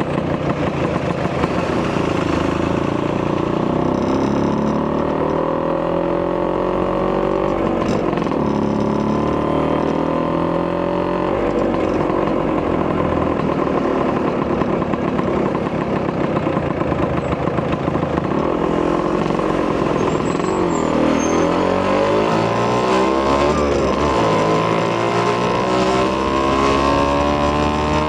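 Vespa PX200 scooter's two-stroke single-cylinder engine, with a Polini 210cc kit and a Malossi expansion-chamber exhaust, running on the move. Its pitch rises and falls repeatedly as the throttle is opened and eased off.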